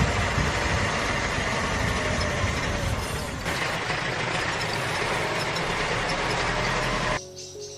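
A small motor runs steadily with a noisy whir, then cuts off suddenly about seven seconds in.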